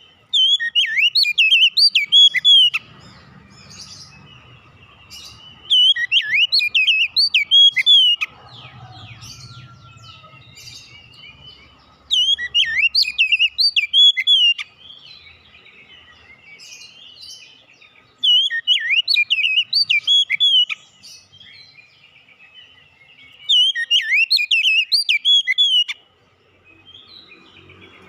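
Oriental magpie-robin singing: five loud bursts of rapid, swooping high notes, each about two and a half seconds long and coming roughly every six seconds, with faint chirps between.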